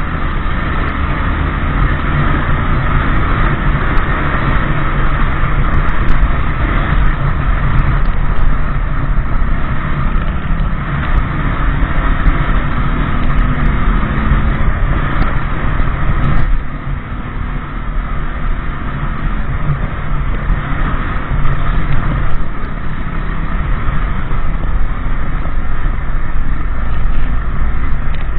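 Motorbike running on the road at speed, with steady wind and road noise. The sound eases briefly about sixteen seconds in.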